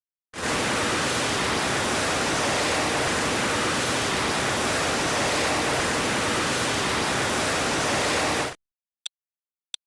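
Spaceship engine sound effect: a steady, even rushing hiss that starts suddenly and cuts off sharply after about eight seconds, followed by two short clicks near the end.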